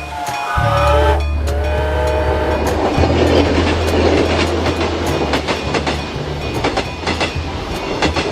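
A train sound effect: a horn sounds in the first couple of seconds, then the train runs past with a rhythmic clatter of wheels over rail joints above a low steady hum.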